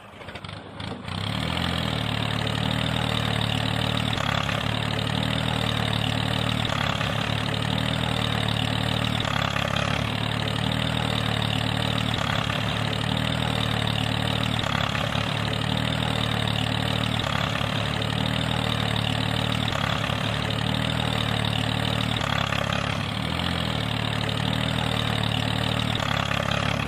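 A small motor running steadily, with a faint regular pulse about every second and a half; it starts about a second in.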